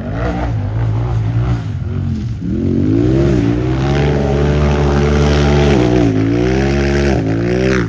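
Racing UTV engine at high revs, its pitch rising and dipping repeatedly with throttle and gear changes. It grows louder toward the middle and falls away near the end.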